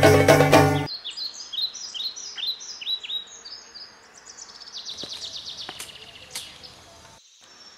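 A drum-heavy music cue ends about a second in, then a bird calls in a series of short, high, falling chirps, a few a second, over outdoor background noise. About halfway through, the chirps become a faster, denser run.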